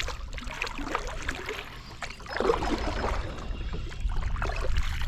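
Kayak paddle strokes in a river: water splashing and dripping off the paddle blades, with a few light knocks, and a louder stretch of splashing about halfway through.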